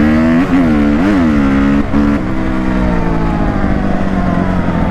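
Dirt bike engine revving, with two quick throttle blips in the first second or so. It then holds a steady pitch, drops to a lower drone about two seconds in, and slowly falls in pitch.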